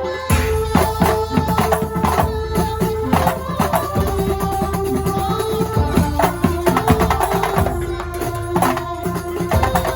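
Kuntulan ensemble music: fast, dense hand-drum patterns played under a held melody line.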